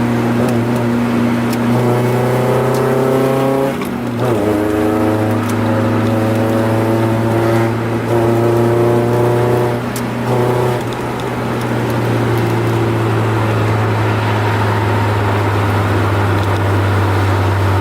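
Honda F22B1 2.2-litre VTEC four-cylinder engine heard from inside the car's cabin under way, with a steady low drone. The revs climb, break off about four seconds in as if at a gear change, climb again, then drop back around ten seconds in and settle to a steady cruise.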